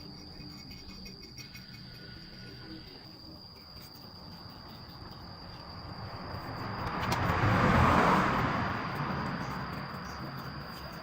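Insects chirring in one steady high tone, while a vehicle passes by, growing louder to a peak about eight seconds in and then fading away.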